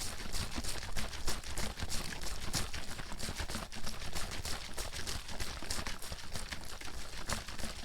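Water sloshing and slapping inside a bottle shaken back and forth, a fast unbroken run of splashy strokes.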